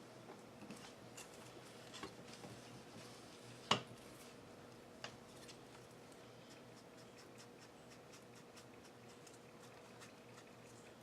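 Faint rubbing and light tapping of ink being dabbed onto a paper craft tag, with one sharp click about four seconds in and a smaller one a second later.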